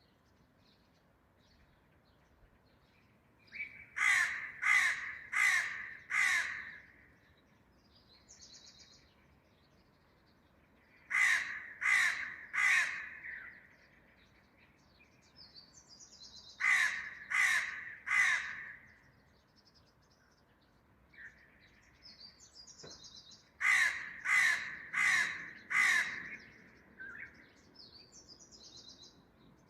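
Crow cawing loudly in four bouts of three or four harsh caws each, the bouts coming every six or seven seconds. Fainter high chirps of small birds sound between the bouts.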